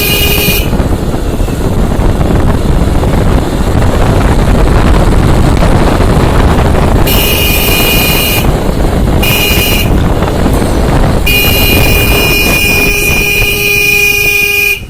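Motorcycle riding on the road with heavy wind rumble on the microphone, while a vehicle horn sounds several times in long held toots, the longest near the end.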